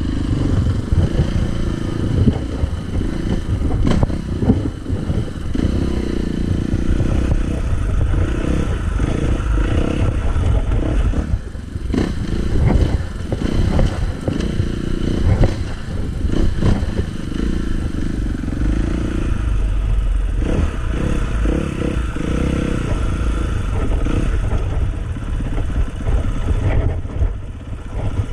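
Dirt bike engine running hard on a trail ride, the pitch rising and falling over and over as it revs and backs off, with knocks and clatter from the bike over rough ground.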